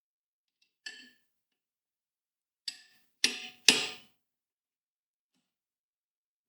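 Four short knocks or clanks with a brief ring: a light one about a second in, then three in quick succession near the middle, the last two loudest.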